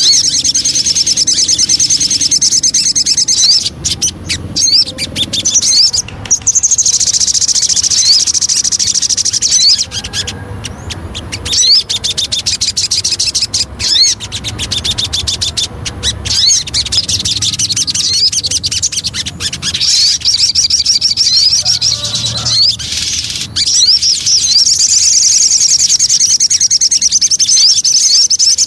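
Sogon songbird singing: fast, high-pitched chirping and short rising notes strung into long runs, broken by a few brief pauses. It is a 'pancingan' lure recording, used to prompt kept sogon birds to sing.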